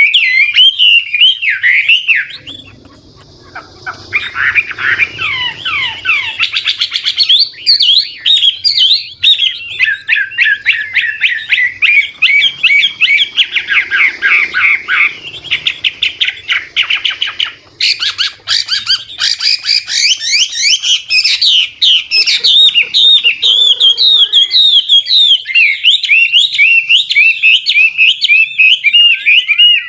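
Chinese hwamei singing a loud, near-continuous song of rapid warbles and trills that keeps changing phrase, with a short pause about three seconds in.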